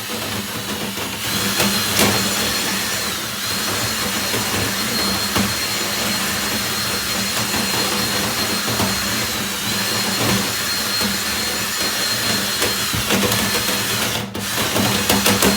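Drill spinning a Lint Eater-style rotary dryer-vent brush on flexible rods inside the vent duct: a steady motor whine that starts about a second in and sags briefly a few times, with rattling noise from the rods and brush.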